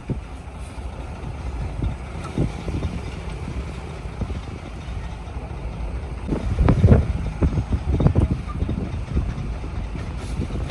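Heavy diesel machinery running with a steady low rumble, with a louder stretch of knocks and clatter about six to eight seconds in.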